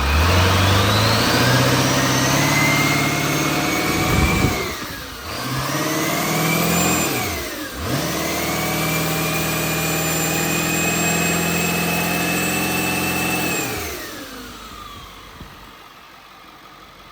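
International T444E 7.3-litre V8 turbo diesel revved up from idle and held high, dropped and revved twice more, the last time held for several seconds, then let fall back to idle. A high whistle rises and falls with the revs.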